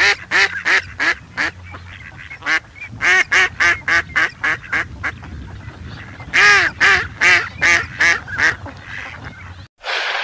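Mallard duck quacking in quick runs of short, loud calls, several quacks to a run, with a faint low hum beneath.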